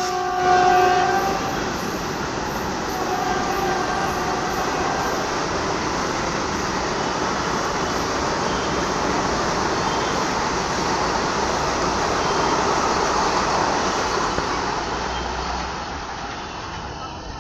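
Vande Bharat Express electric train running at speed, a steady rushing rumble of wheels and air. Its two-tone horn ends about a second in, and the rumble fades off near the end.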